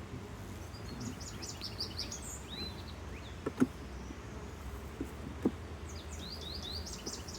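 A songbird sings two phrases of quick falling chirps, one early and one near the end. In between come a few sharp wooden knocks as hive boxes and frames are set in place, the loudest about three and a half seconds in. A low steady hum lies underneath.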